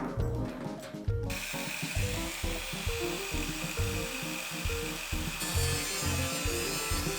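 A tool cutting or grinding material with a steady hissing rasp that starts about a second in, over background music with a bass line.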